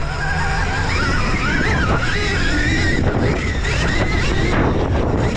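Dirt bike being ridden on a motocross track: a whine that rises and falls with the throttle over a low rumble of wind on the microphone.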